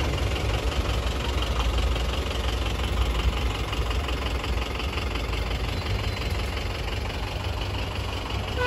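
A car engine idling with a steady low rumble. A car horn toots briefly at the very end.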